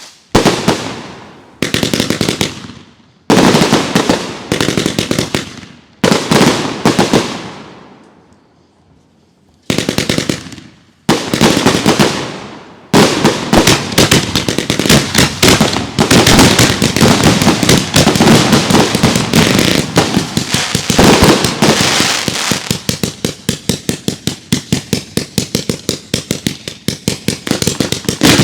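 Consumer fireworks going off: single loud bangs every second or so, each fading away, with a short lull in the middle, then a fast barrage of many shots a second through the second half.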